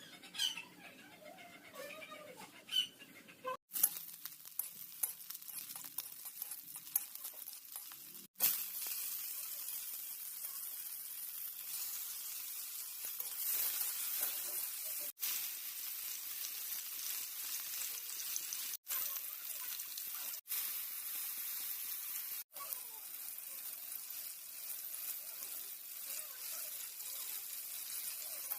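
Eggs frying in oil on a tawa (flat iron griddle). For the first several seconds it is quieter, with clicks and stirring, then a steady sizzle takes over, cut by a few brief dropouts.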